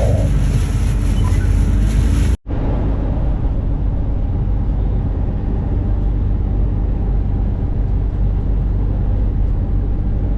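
Steady low rumble of a semi-truck's engine and road noise inside the cab, broken by a brief dropout about two seconds in where the recording cuts and resumes.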